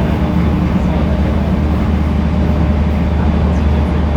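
Steady running noise heard inside a passenger car of an E231 series 1000 commuter train under way: a constant low hum under the rumble of wheels on the rails.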